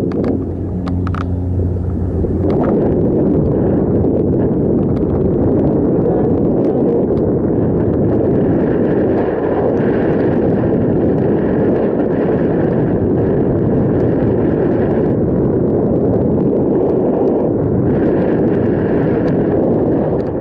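Steady rushing wind noise on the microphone of a moving bicycle, with a low hum in the first two seconds or so.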